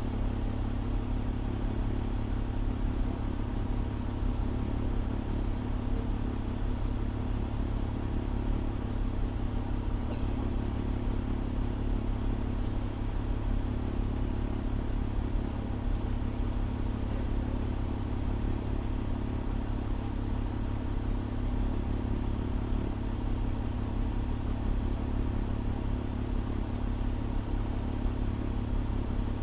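A fire engine's engine running steadily, a constant low hum with no change in speed, heard through the engine's dashcam.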